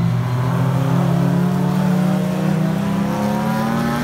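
Car engine running, its pitch rising gradually as the engine speeds up.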